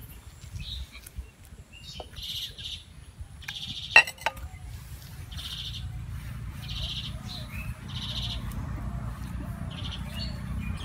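Small birds chirping, short high notes mostly in pairs, repeating about once a second, with a sharp clink about four seconds in.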